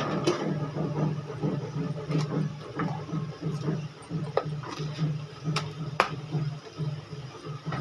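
Knife chopping fresh coriander on a cutting board: sharp, irregular knocks every half second to a second, over a low, steadily pulsing hum.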